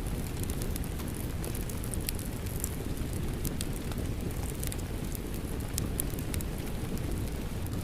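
Wood fire crackling in a fireplace, with irregular sharp pops and snaps over a steady low rush of rain.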